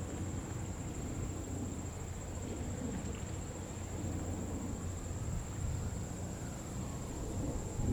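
Jet airliner engines rumbling steadily in the distance, with a faint whine that rises in pitch near the middle.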